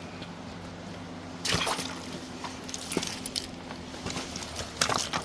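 Water splashing and sloshing in shallow creek water as a hooked steelhead is brought in, the irregular splashes starting about a second and a half in.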